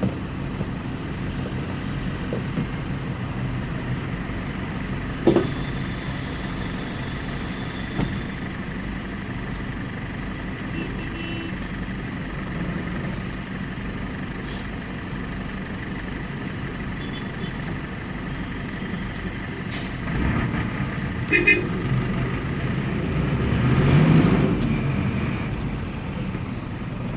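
Air-cooled Deutz F4L912 diesel engine of an Otokar M-2000 minibus running steadily under way, with a sharp clack about five seconds in. Near the end the engine grows louder and rises in pitch as it is revved up, then settles back.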